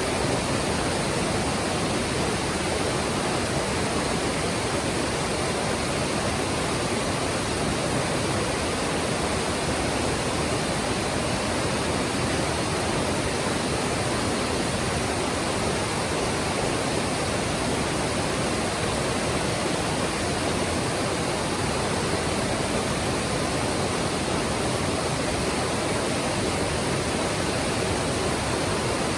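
Mountain stream rushing over rocks, a steady even wash of water with no breaks.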